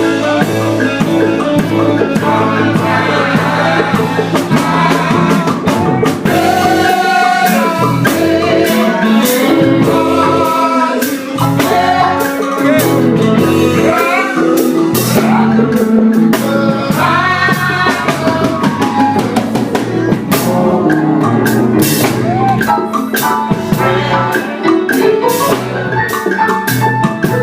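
Gospel group singing with a band, with the voices over a drum kit keeping a steady beat.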